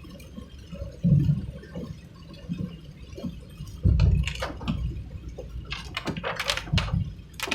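Vehicle driving on a rain-soaked road: a low road rumble with heavy thumps about one and four seconds in, then a spell of splashing water hiss from the tyres.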